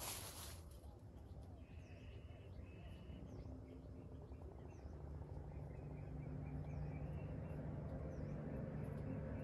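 Faint bird chirps, short and high, every second or two over a quiet outdoor background. There is a brief rustle right at the start, and a low steady drone grows louder through the second half.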